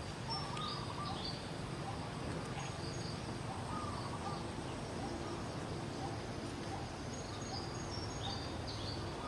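Outdoor ambience: a steady background hiss with short, high animal chirps and calls scattered through it.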